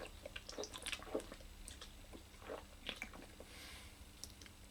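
A person drinking beer: faint, irregular gulps and swallowing sounds.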